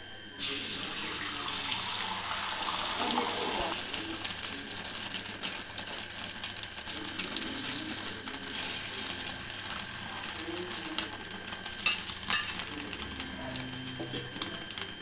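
Egg frying in hot oil in a pan: a steady sizzle with many small crackles, which starts abruptly and has a louder flurry of crackles late on.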